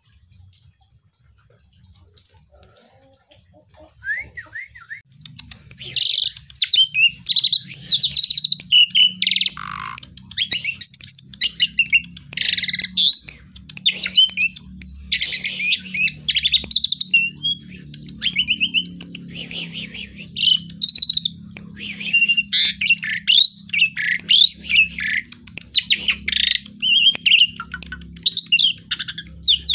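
Pied starling (jalak suren) singing continuously: a dense, varied run of loud whistles, squawks and chattering notes that starts after a few quiet seconds and keeps going without a break.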